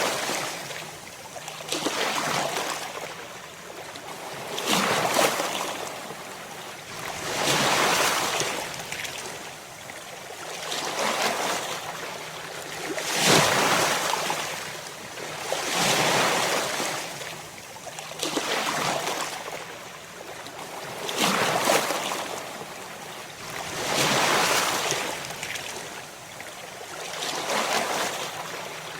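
Ocean waves breaking on a shore: a steady series of surges, each swelling and fading about every two and a half to three seconds.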